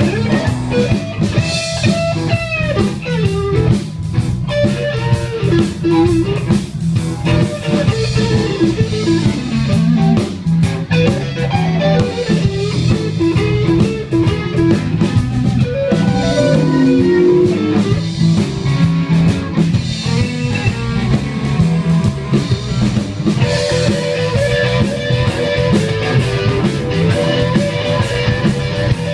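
Live blues band playing an instrumental break: a lead electric guitar solo over bass and drum kit.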